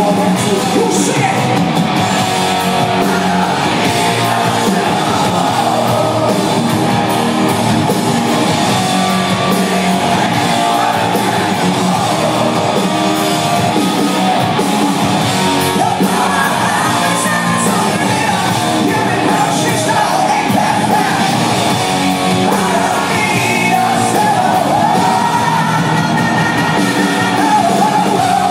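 Live hard rock band playing loud: electric guitars and drums, with a lead vocal sung and shouted over them, heard in a large hall.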